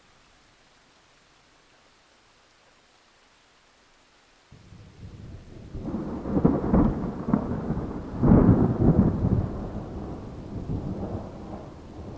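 A faint hiss, then about four and a half seconds in a thunderstorm starts abruptly: rolling thunder with two loud peaks of rumbling, dying away over rain.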